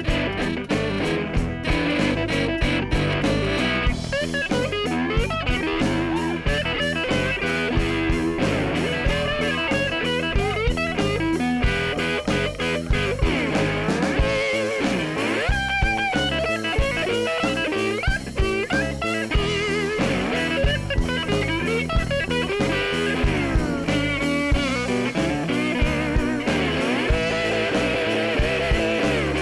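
Blues instrumental break: a guitar plays lead lines with bent, sliding notes over a steady beat.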